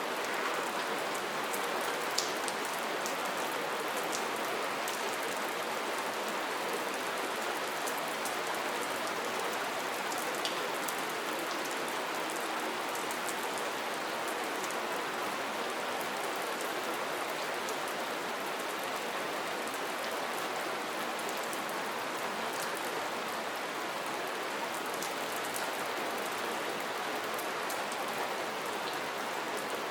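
Steady rain falling, an even hiss of many drops with scattered individual drop ticks, two of them a little louder near the start and about ten seconds in.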